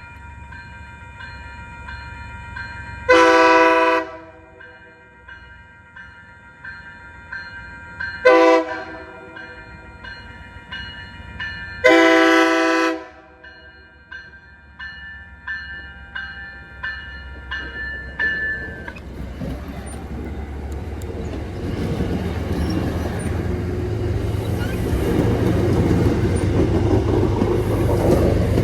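A train's air horn sounds three blasts, long, short, long, over a bell ringing steadily. The bell stops about two-thirds of the way in, and the rumble of the passing train builds up louder toward the end.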